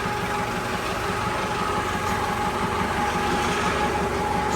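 A machine running steadily: a droning, engine-like hum with a few held tones over a fast, even low pulse.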